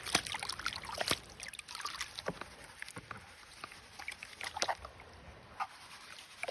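Water sloshing and dripping with irregular small clicks and taps, as sluice concentrates and gravel are handled in water.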